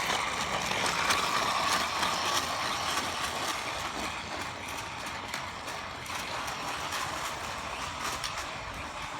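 Toy truck pushed along the ground, its wheels and plastic parts rattling and clicking as it rolls.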